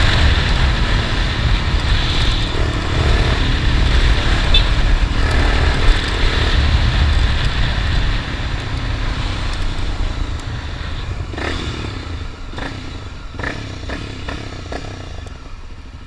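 Honda XRE 300 single-cylinder motorcycle engine running while riding, with heavy wind noise on the microphone; the sound dies down steadily over the second half, with a few sharp clicks near the end.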